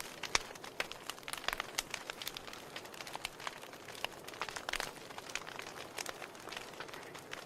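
Wood fire in a fireplace crackling, with irregular sharp pops and snaps of burning logs over a soft steady hiss.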